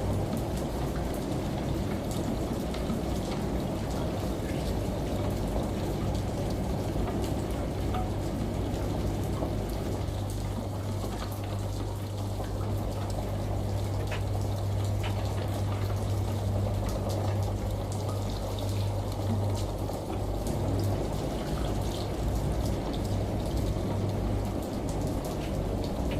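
Rain pattering and running shower water mixed with a washing machine's steady low hum. The hum grows weaker after about twenty seconds.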